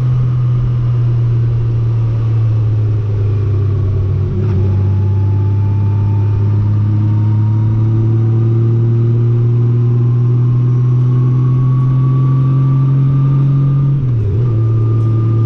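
Honda Gold Wing GL1800 flat-six engine running at road speed, heard from the rider's seat with road and wind noise. Its note climbs slowly, with a brief change about four seconds in and a short dip and recovery near the end.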